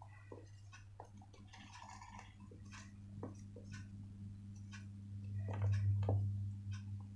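Sheets of paper being handled, folded and creased: scattered light clicks and short rustles over a steady low hum that swells for about a second, a little past the middle.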